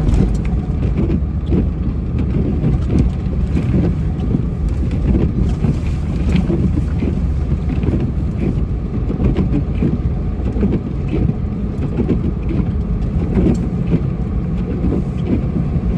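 Snow-plow truck running while it pushes snow with its blade, a steady low rumble heard from inside the cab.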